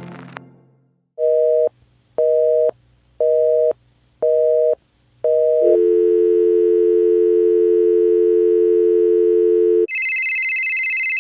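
Telephone line-tone sound effects: a busy signal of five short beeps about once a second, then a steady dial tone, then switching near the end to the high trill of an electronic phone ringing. A brass music clip fades out at the very start.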